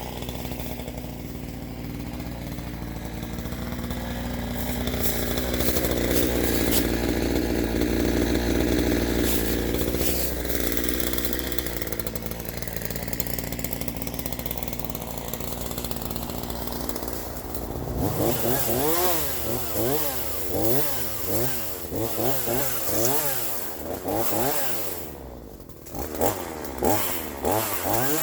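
Troy-Bilt TB4218 42cc two-stroke chainsaw running steadily, louder for several seconds in the first half. From about two-thirds of the way in, it is revved up and down over and over, more than once a second, dropping briefly to idle near the end before revving again.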